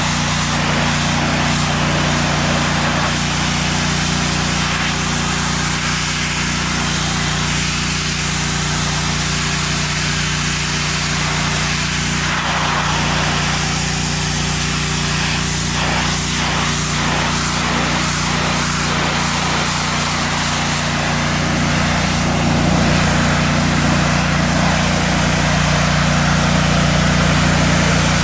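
Gas-engine pressure washer running steadily, with the hiss of water spraying hard from the wand against a surface; the hiss changes texture midway as the spray moves.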